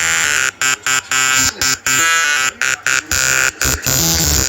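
Loud, harsh electronic buzzer-like sound effect, cut by many short, irregular gaps, which stops abruptly at the end.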